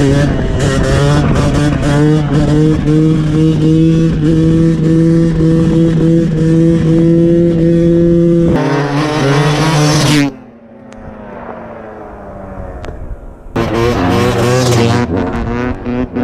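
Two-stroke dirt bike engine running at steady high revs, then revving harder and louder for a moment before the throttle is chopped about two-thirds of the way through, leaving a quieter note that falls away. About three seconds later it comes back on the throttle and revs up loud again.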